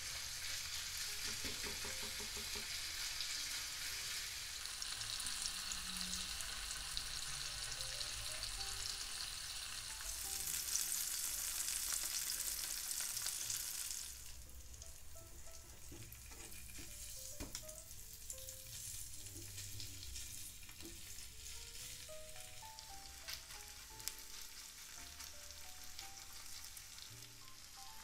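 Seitan steaks sizzling in oil in a non-stick frying pan, a steady hiss that is louder in the first half and drops to a quieter sizzle about halfway through. Soft background music runs underneath.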